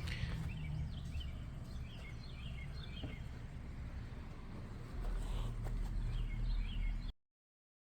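Small birds chirping in short, scattered calls over a steady low rumble that grows louder about five seconds in; the sound cuts off abruptly a little after seven seconds.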